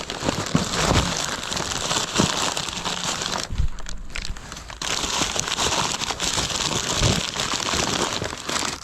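Paper or plastic wrapping being crumpled and rustled almost without pause while items are dug out of a box, with a few soft knocks of objects being handled.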